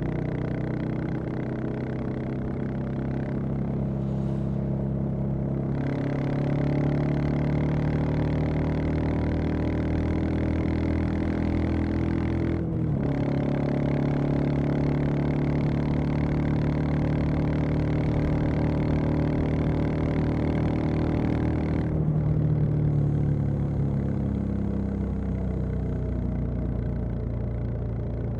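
Royal Enfield Classic 350's single-cylinder engine and exhaust under way. The engine note climbs slowly, drops suddenly about twelve seconds in with a gear change, and climbs again. About twenty-two seconds in it drops again and winds down as the throttle eases off.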